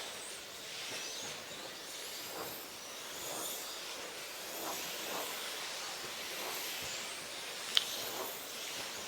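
Electric RC stadium trucks racing: a steady hiss with faint high-pitched motor whines that rise and fall as the trucks pass. A single sharp click near the end, likely a truck landing or striking something.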